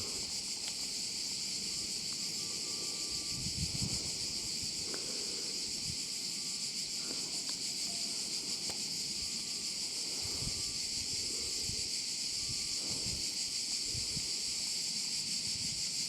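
A steady chorus of insects: an even, high-pitched buzz that does not let up, with wind rumbling on the microphone underneath.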